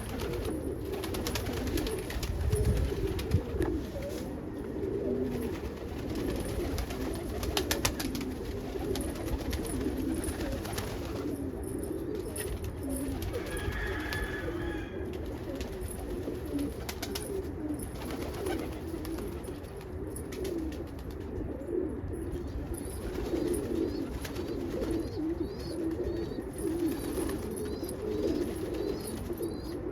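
Birds calling continuously, many low, warbling calls overlapping.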